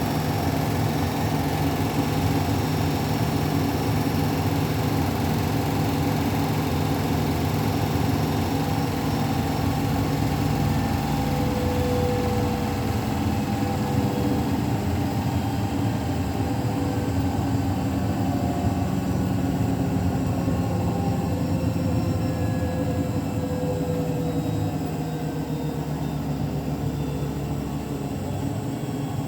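Beko WTK104121W washing machine spinning on its 1400 rpm final spin: a steady motor hum and drum rumble that gets a little quieter in the last few seconds.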